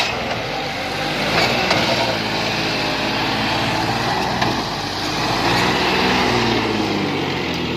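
John Deere 5305 tractor's diesel engine running steadily.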